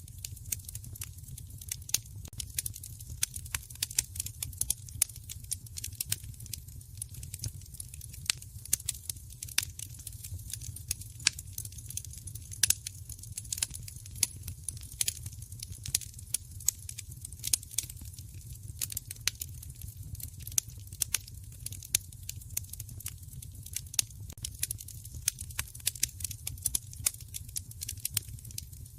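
Wood fire crackling: irregular sharp pops and snaps, several a second, over a low steady rumble of the flames.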